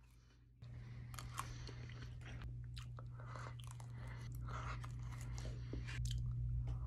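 Close-miked mouth sounds of someone eating a slice of cheesecake from a fork: wet chewing, smacking and small clicks. A steady low hum runs underneath from about half a second in.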